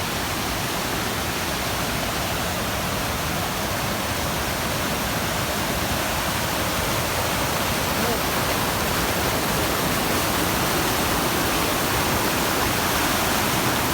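Steady rush of a mountain waterfall, an even wash of falling water that grows a little louder near the end.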